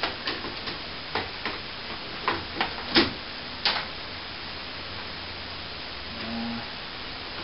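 A run of sharp knocks and cracks, about ten in the first four seconds and loudest about three seconds in, as a ceiling air-conditioning vent that is stuck fast is worked loose from the plaster.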